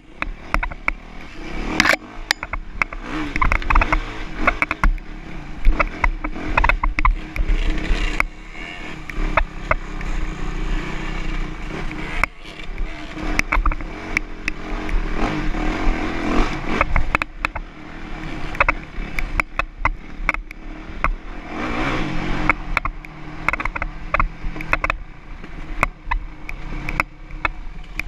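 Dirt bike engine running and revving up and down, with many sharp clicks and rattles.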